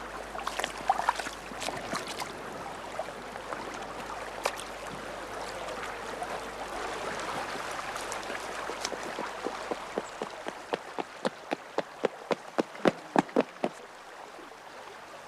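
Steady rush of running water with scattered clicks. About two-thirds of the way through, a run of evenly spaced knocks starts, about three a second, grows louder and then stops.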